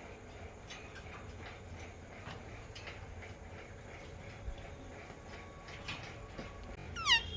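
Alexandrine parakeet: faint scattered clicks, then near the end a single short, loud call that falls in pitch.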